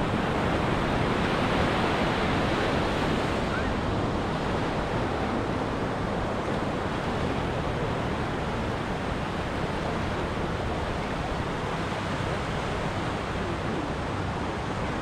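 Ocean surf breaking and washing up a beach: a steady rush of waves, a little louder in the first few seconds and then easing off.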